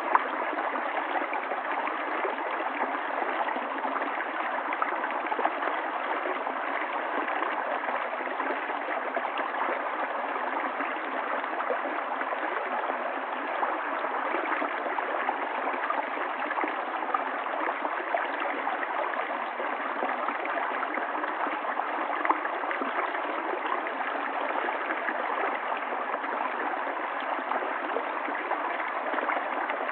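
River water flowing steadily over stones, a continuous babbling and gurgling stream.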